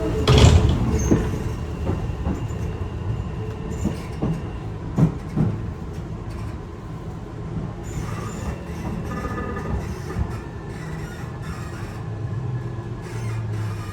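Yokohama Minatomirai Railway Y000 series commuter train heard from inside the car, running and gradually slowing. There is a loud knock about half a second in and clunks over rail joints around five seconds, then faint steady whine tones as the rumble eases.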